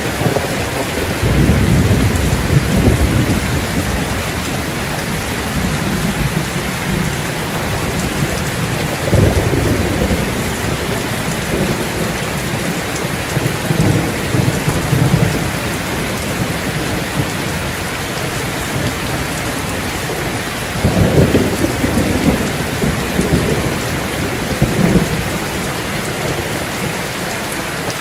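Steady rain falling, with low rolls of thunder rumbling up and fading several times.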